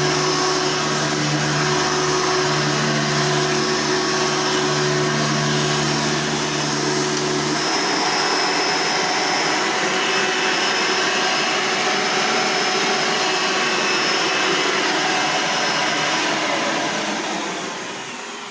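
Hoover upright vacuum cleaner motors running steadily. A low hum drops out about eight seconds in, and the remaining motor winds down near the end.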